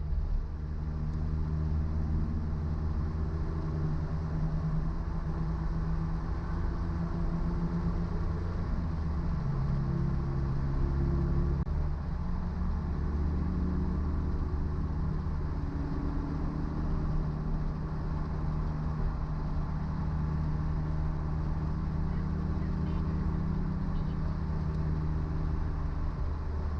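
New-generation Suzuki Jimny running steadily while driving, its engine note shifting briefly about ten seconds in.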